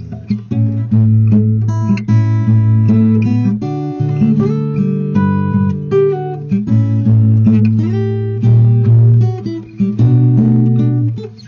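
Acoustic guitar strummed, with the chords changing every second or two.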